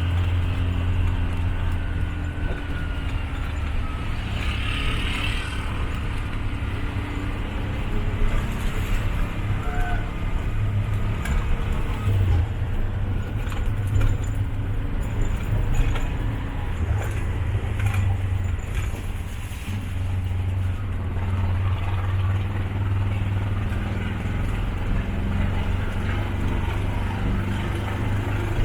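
Small motorcycle-engined mototaxi running along the road, heard from on board: a steady low engine drone with road noise and occasional rattles and knocks.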